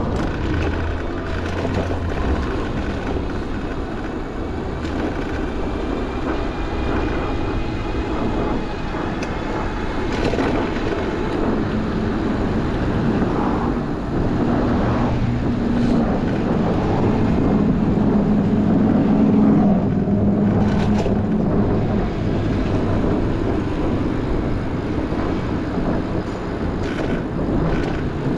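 Downtown street traffic heard from a moving bicycle: steady road rumble and noise, with a motor vehicle's low engine hum building about halfway through, loudest a little after that, then easing off.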